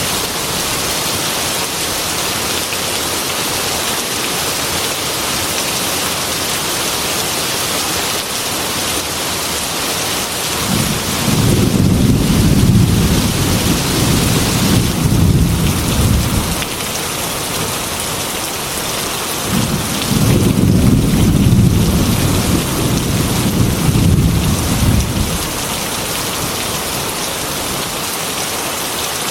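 Heavy rain falling steadily on a glass window, with two long rolls of low thunder, the first about ten seconds in and the second about twenty seconds in, each lasting around six seconds.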